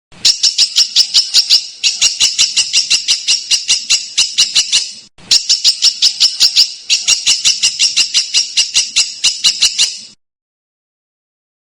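A songbird repeating rapid, harsh, sharp notes, about seven a second, in two long runs with a short pause about halfway through, stopping shortly before the end.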